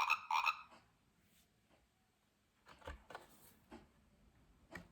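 The last two croaks of a sound book's recorded frog call end in the first second. After a pause come faint rustles and clicks of the book being handled and its page turned.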